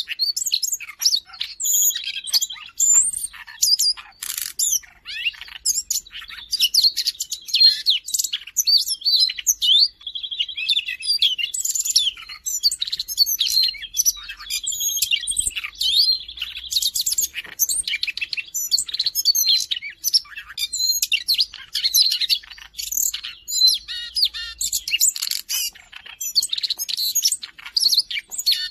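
Siberian rubythroat singing a fast, continuous, varied warbling song of quick chirps and whistles, broken now and then by short buzzy trills.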